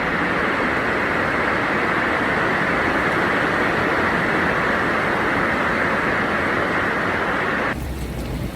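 Heavy rain pouring down in a loud, steady, dense hiss, cutting off abruptly near the end.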